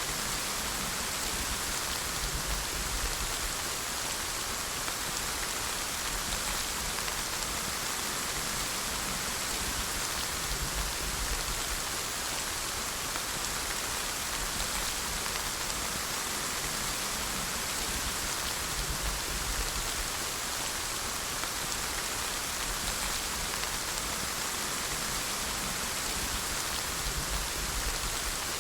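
Steady rain falling on a surface, a continuous even hiss of drops.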